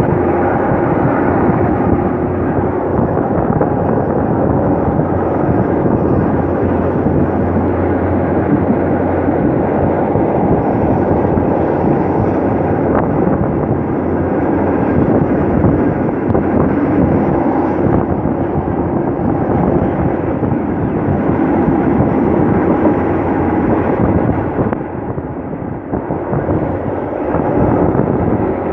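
Passenger train running along the line, heard from a carriage window: a steady rumble and clatter of wheels on the rails. The noise dips briefly near the end, then rises again as the train comes up to a steel truss bridge.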